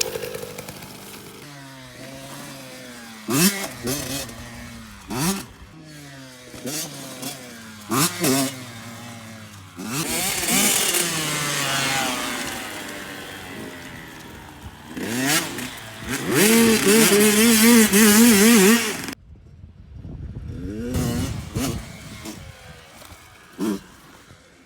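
Dirt bike engines revving through the gears in repeated rising bursts, with a loud stretch at high revs that cuts off abruptly and then quieter engine sound.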